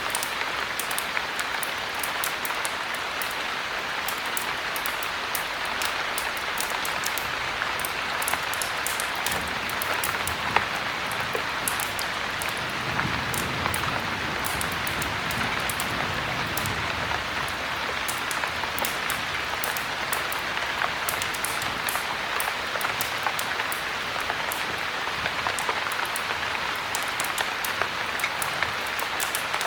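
Steady heavy rain, an even hiss scattered with many sharp ticks of drops. A soft low rumble swells up for a few seconds about halfway through.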